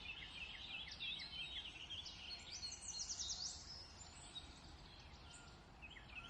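Faint background chorus of small birds chirping: many short, quick calls, with a rapid run of repeated notes about three seconds in and a brief lull shortly before the end.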